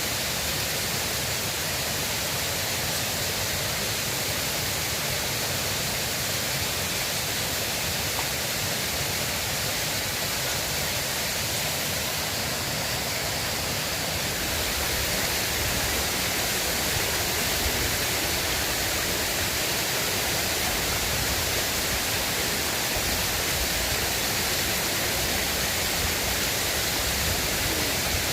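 River water rushing steadily, a continuous even hiss without breaks.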